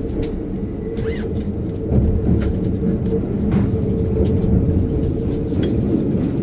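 Cabin noise of a Kintetsu 80000 series Hinotori limited express underway underground: a steady low rumble of the wheels on the rails with a steady hum, a few faint clicks, and a short high squeal about a second in.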